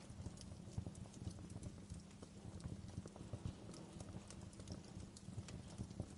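Wood fire in a fireplace, crackling and popping irregularly over a soft low rumble of the flames.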